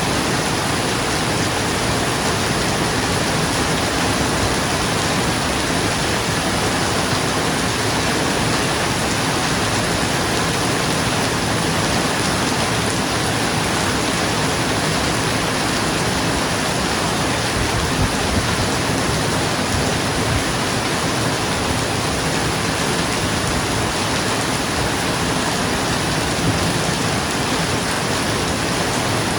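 Steady rain falling on a roof, an even, dense hiss.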